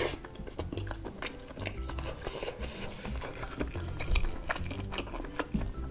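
Close-up eating sounds: chewing a mouthful of tapioca-and-beef meatball, with many small clicks of a metal fork against the soup bowl. Soft background music plays under it.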